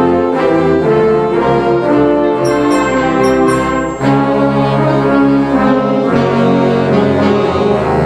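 Concert band playing a loud brass fanfare, with trombones and trumpets to the fore, sustained chords and short bright high notes ringing out about a third of the way in.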